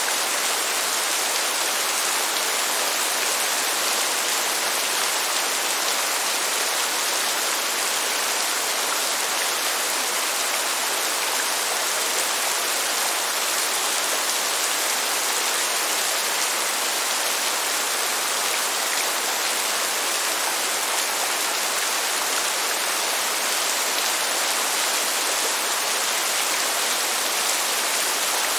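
Steady heavy rain, an even hiss of falling water that does not change in level.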